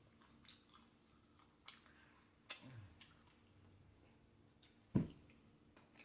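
Close-up mouth sounds of eating steak: a scattering of wet clicks and smacks while chewing, with a sharper, louder knock about five seconds in.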